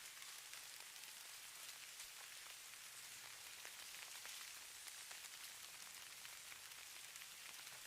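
Falling-snow ambience: a faint, steady high hiss of fine particles pattering, dotted with many tiny ticks.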